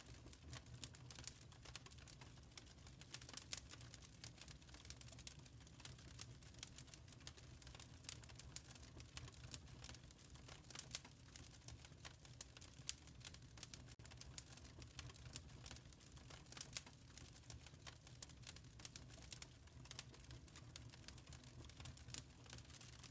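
Wood fire crackling in a fireplace: faint, irregular pops and snaps over a low, steady rumble of the flames.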